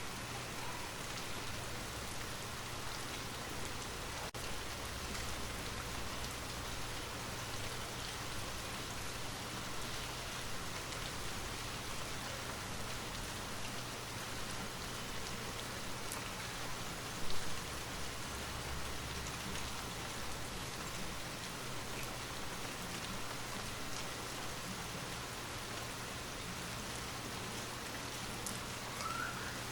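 Steady rain falling on a surface, an even hiss with scattered drop ticks, over a low steady hum. About seventeen seconds in there is one brief, louder knock.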